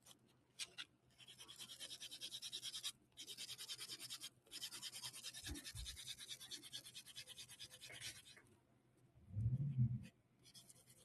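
Nail buffer rubbed quickly back and forth over a gel-polished fingernail: a scratchy rasp of several strokes a second in runs with short pauses, lightly dulling the shine to matte so chrome powder won't stick. A low muffled bump comes near the end, followed by another short run of buffing.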